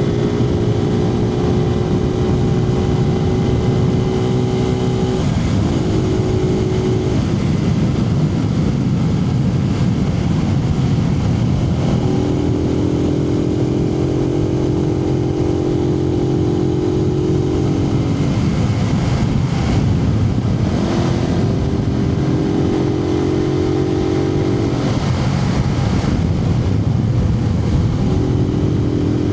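Suzuki TU250X's single-cylinder engine running under way, heard from inside the rider's helmet over a steady rush of wind. Its note breaks off and comes back at a different pitch several times.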